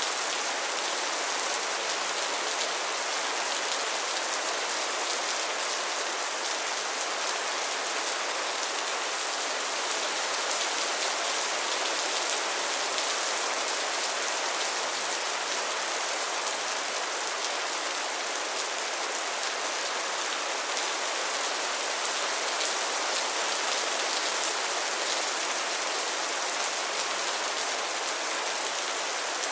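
Steady rain, a dense patter of drops falling on a surface.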